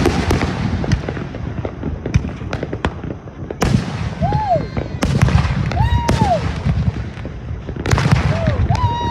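Fireworks show: aerial shells bursting with loud reports and scattered crackling over a low rumble, with big bursts about a third of the way in, halfway and near the end. Several short tones rise and fall over the bursts.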